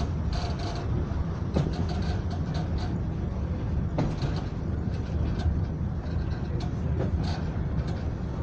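Passenger train running along the line, heard from on board: a steady low rumble with scattered sharp clicks of the wheels over the track.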